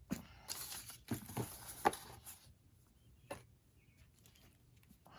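Paper rustling and small taps and knocks as craft materials are handled on a work table, busiest in the first two seconds, with one more sharp tap about three seconds in.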